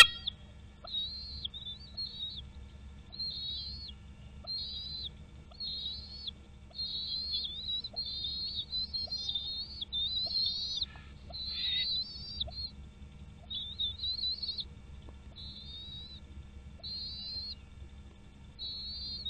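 A bird calling in a long series of short, high, thin whistled notes, roughly one a second, each note rising slightly.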